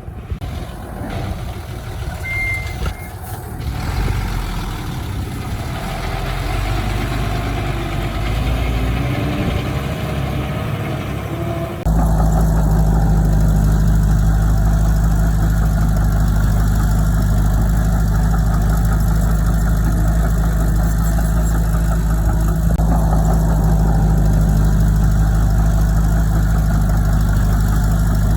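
Diesel engines of heavy earthmoving equipment running. About twelve seconds in, the sound cuts abruptly to a louder, steady low engine drone.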